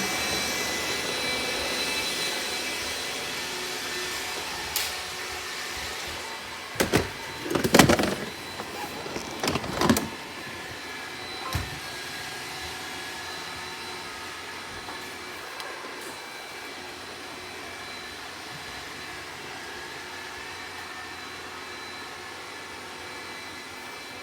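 Robot vacuum cleaner running with a steady motor hum and whine that fades as it moves away, with a few sharp knocks about seven to ten seconds in, then a lower steady hum.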